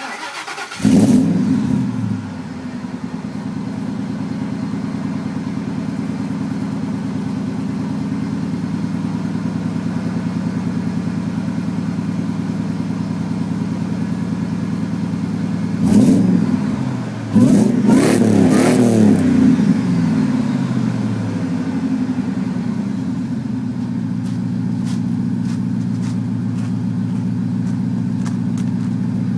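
Ford F-150's 5.4-litre V8 through a Magnaflow rear box and racing cats, idling with a deep, steady exhaust note. It revs up briefly about a second in, then twice more past the middle, a short blip and then a longer rev, each time dropping back to idle.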